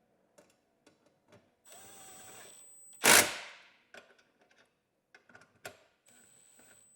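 Cordless drill/driver spinning briefly twice, each run about a second, with a thin high whine, while bolts on the floorboard plates are fastened. Between the runs comes one loud sudden knock with a short ring-out, and small clicks of parts and fasteners being handled.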